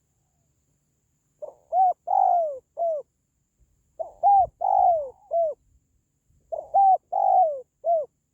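Spotted dove cooing: three phrases a little over two seconds apart. Each is a short lead-in note and then three hooting coos, the middle coo the longest.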